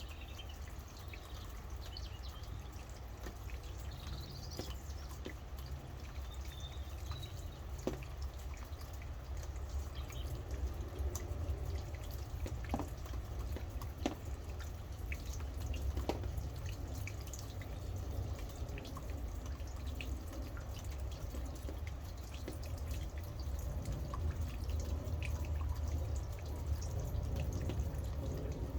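Rain dripping in irregular drops and ticks over a steady low rumble, with a few faint bird chirps in the first several seconds.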